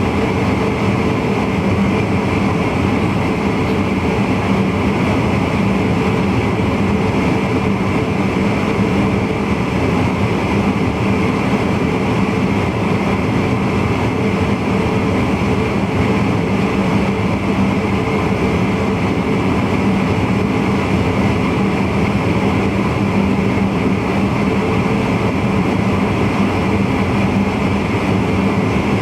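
A VIRM double-deck electric intercity train running steadily along the track, heard from the driver's cab: a constant rolling and running noise that stays unchanged throughout.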